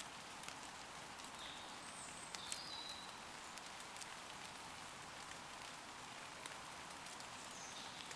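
Light rain falling steadily on leaves, with scattered sharp drip hits. A few brief, high bird chirps come about two to three seconds in.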